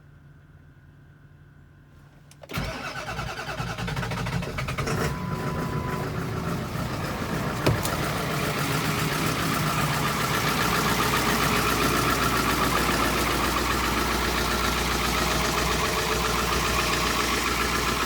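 Ford 7.3 Powerstroke turbo-diesel V8 cold-starting: after a quiet pause it fires about two and a half seconds in, then settles into a steady idle.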